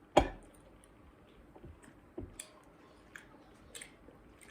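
Close-miked eating: a sharp knock about a quarter second in, then scattered small crunchy clicks of chewing.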